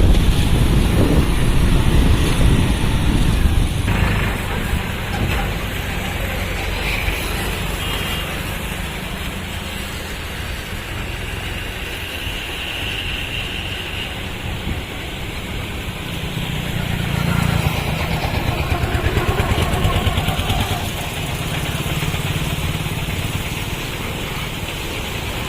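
Moving motor vehicle running along the road: steady engine and road rumble with wind on the microphone. It grows louder for a few seconds past the middle.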